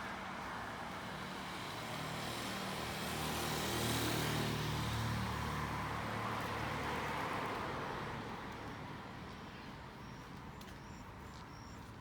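A road vehicle driving past, its engine and tyre noise swelling to loudest about four to five seconds in, then fading away.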